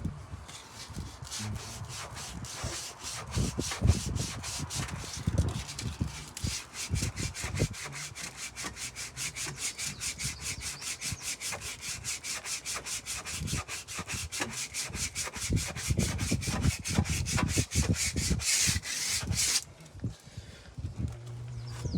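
Bondo body filler on a wooden brick mold being sanded by hand. Irregular scrapes and knocks come first, then rapid, even back-and-forth rubbing strokes, about four or five a second, which stop abruptly near the end.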